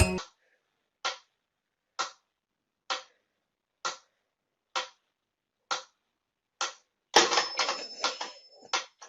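Seven short ticks, evenly spaced a little under a second apart, with silence between them. About seven seconds in they give way to a louder, noisy clattering stretch with a steady high beep under it.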